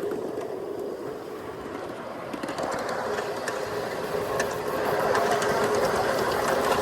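Ride-on miniature railway train rolling fast along the track: wheels clattering over the rails with a steady whine, growing louder about halfway through.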